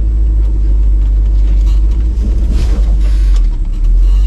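Old tow truck's engine running at low speed, a steady low rumble as the truck creeps along a tight trail, with a few short knocks or scrapes partway through.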